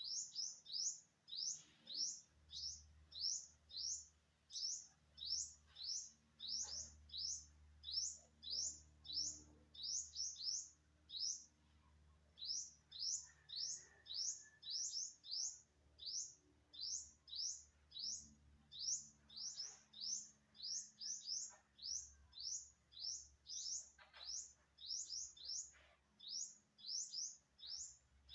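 A bird repeating one short, high chirp about twice a second, steadily, with a brief pause about twelve seconds in.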